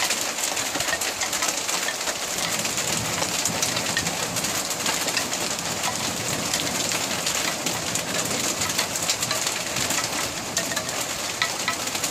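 Heavy rain mixed with hail: a steady hiss dotted with many small pattering hits.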